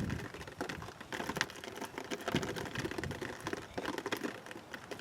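Kobalt copper-pipe reamer turned by hand in the cut end of a CPVC pipe, scraping off burrs in a run of irregular dry clicks and scrapes.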